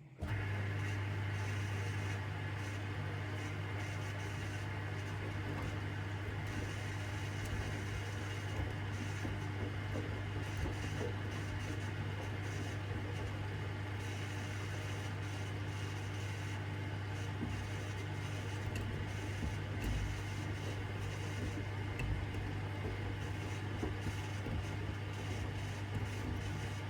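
AEG 8000 Series front-loading washing machine running through its Easy-care 30°C cycle, with a steady low hum and machine noise throughout.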